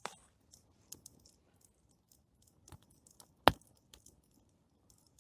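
Campfire of plum wood crackling as it catches: sparse small pops and snaps, with one sharper pop about three and a half seconds in.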